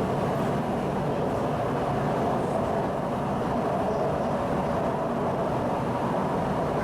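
Shanghai Metro Line 11 train running at steady speed, heard from inside the car: an even rumble of wheels and running gear on the rails.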